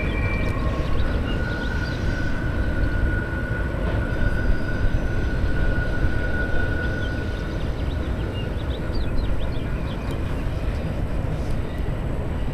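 Autorack freight cars of a CSX train rolling past with a steady rumble and clatter of wheels on rail. A steady high-pitched whine runs from about a second in to past the middle, with faint short squeaks.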